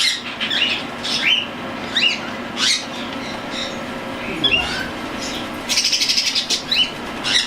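Young cockatiels calling with short, repeated rising chirps, one every half second or so, with a harsh rapid rattling call for under a second a little before the end.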